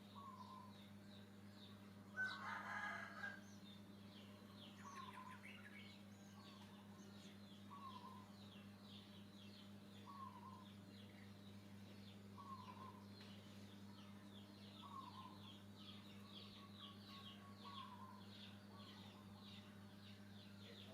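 Faint bird calls: a louder crow-like call about two seconds in, then a short call repeated every second or so among quicker high chirps, over a steady low hum.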